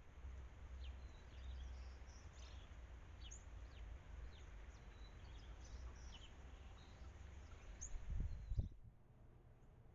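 Many short, high bird chirps from small birds, coming every fraction of a second over a steady low rumble. Near the end there are a couple of low thumps, after which the rumble drops away.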